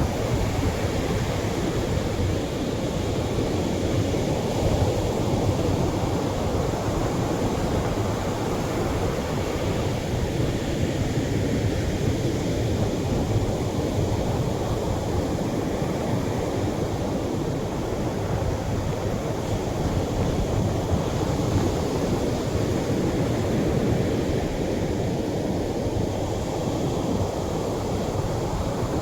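Atlantic surf breaking gently on the shore: a steady, continuous wash of waves with only mild swells in loudness.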